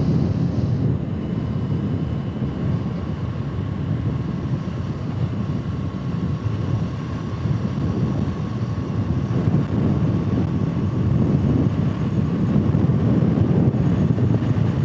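Motorcycle on the move: steady wind and road rumble with the engine running underneath, unchanging throughout.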